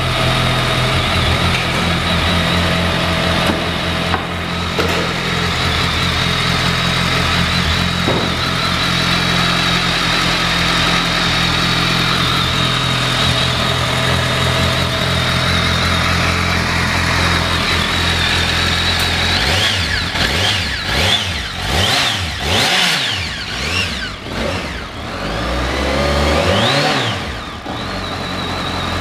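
BMW K1200S inline-four engine idling steadily, then revved several times, the pitch climbing and dropping with each blip, before it settles back to idle.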